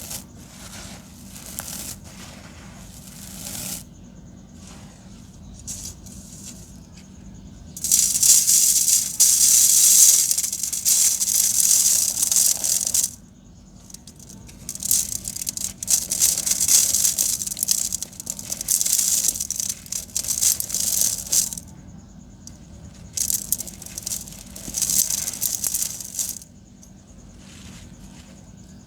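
Dry sand-cement lumps being crumbled: a gritty crunching and rattling that comes in three long loud spells, with quieter crackling between them.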